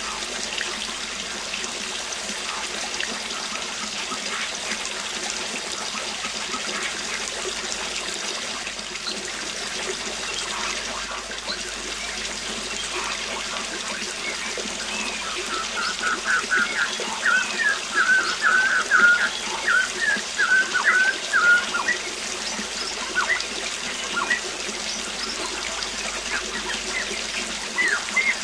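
Steady water noise of a waterfall, with small birds chirping over it: a quick run of short chirps about halfway through, and more chirps near the end.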